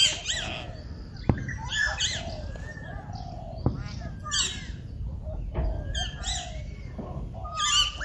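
Birds calling: a run of short, high, arching squawks and chirps, one every half second to a second, with two sharp clicks over a low rumble.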